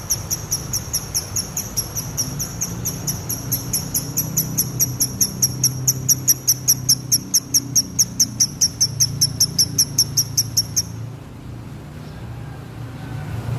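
Male lovebird singing a konslet run: a long, fast, evenly spaced string of high, dry, clear chirps at about four to five notes a second. The run stops about eleven seconds in.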